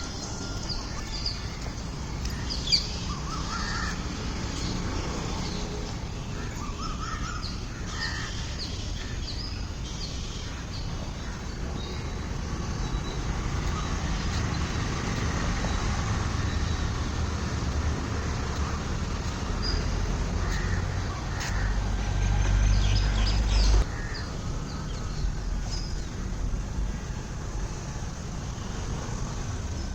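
Birds calling and chirping in short, scattered calls over a steady low rumble, which grows louder for about two seconds near the end.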